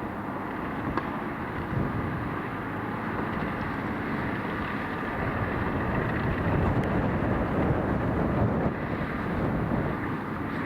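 Massey Ferguson tractor's engine running steadily while it works, getting louder past the middle, with wind blowing on the microphone.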